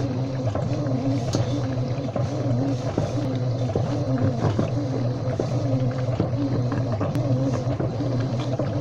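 Washing machine running mid-cycle: a steady motor hum with a tone that rises and falls about once a second, and many small knocks and splashes over it.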